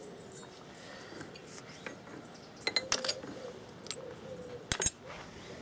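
Stainless steel kitchen sieve clinking and knocking as it is handled, its newly spot-welded handle being tried. A few sharp metallic clinks come about three seconds in, and a couple more near five seconds.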